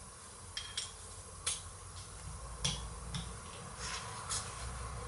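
Light, sharp clicks and clinks of small metal gearbox parts and tools being handled during disassembly, about six scattered taps over a steady hiss.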